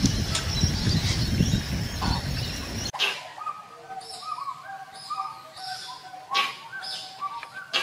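A low rumbling noise with a thin steady high whine cuts off abruptly about three seconds in. It gives way to birds calling: short, flat, repeated notes, with a few sharp clicks in between.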